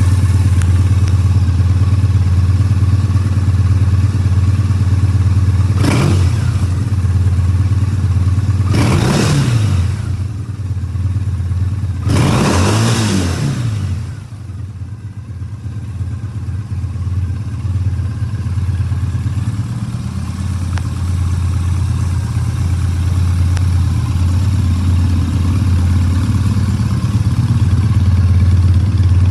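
Triumph Bonneville T100 parallel-twin engine idling steadily, with three quick throttle blips about six, nine and thirteen seconds in, the last the longest, after which the idle settles a little quieter.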